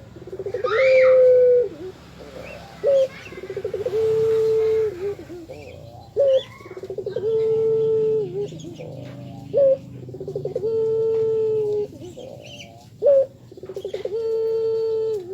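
Puter (Barbary dove) cooing over and over, about every three seconds. Each phrase is a short sharp note, a quick rolling stutter, then one long level coo that drops at the end. Faint chirps from other small birds and a low steady hum run underneath.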